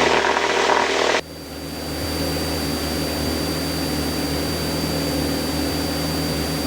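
Single-engine light aircraft's piston engine and propeller running steadily at takeoff power, heard in the cockpit during a short-field takeoff. In the first second a loud burst of hiss cuts in, then stops suddenly.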